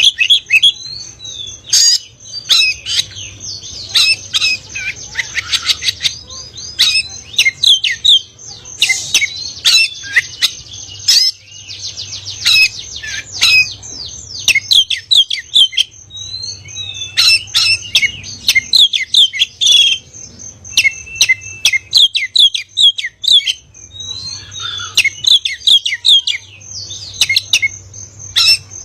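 Oriental magpie-robin (kacer) singing a long, loud, varied song of rapid whistles, sweeps and chattering notes in phrases with short pauses, over a steady high-pitched tone.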